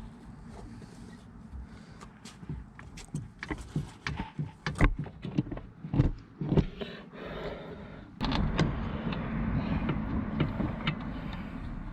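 Metal tools clinking and knocking against a car's rear brake caliper and pads as they are pried at, a quick run of sharp knocks through the middle. From about eight seconds in a steady rushing noise sets in.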